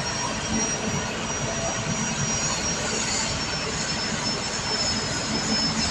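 Kobelco SK210LC excavator's diesel engine running steadily, with a thin high whine over it.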